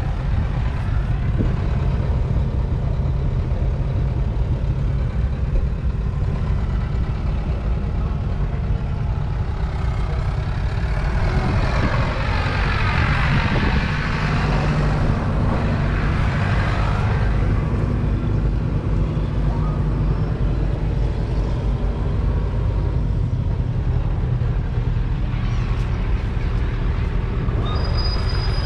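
Case International Harvester 956 XL tractor's 5.9-litre six-cylinder diesel engine running steadily, growing louder and brighter about halfway through as it passes close by, then settling back.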